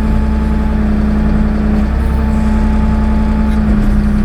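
Diesel engine of a Ford 555 backhoe running at a steady speed with an even drone.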